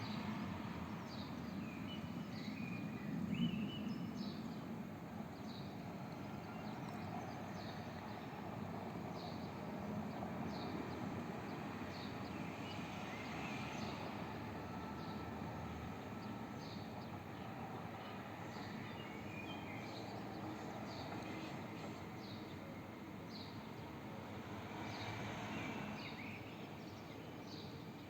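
Birds calling over a steady outdoor background noise. A short high chirp repeats about once a second throughout, with bursts of twittering now and then.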